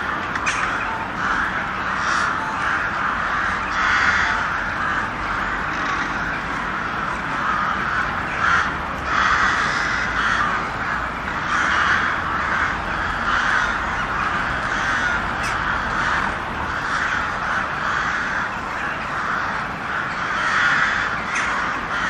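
A flock of birds giving harsh, raspy, cawing calls, many voices overlapping continuously with no pauses.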